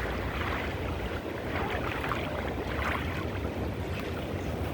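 Wind rumbling on the microphone over the wash and splash of pool water.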